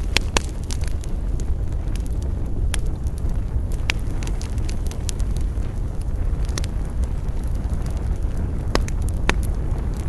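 Wood campfire crackling, with irregular sharp pops and snaps, a handful of them louder, over a steady low rumble.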